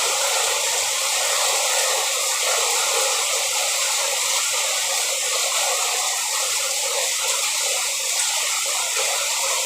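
Steady heavy rain: a constant, even rushing hiss with no separate drops or changes.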